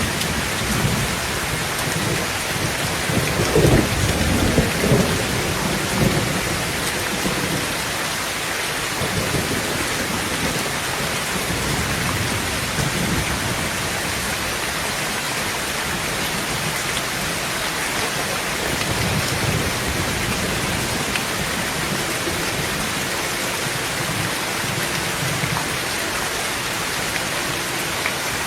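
Heavy rain falling steadily on a tin tent roof, with rolling thunder rumbling loudest about three to six seconds in and fainter rumbles later.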